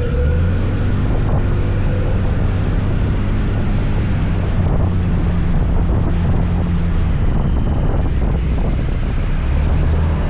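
Motor scooter engine running steadily under way, with a low drone and wind rushing over the microphone.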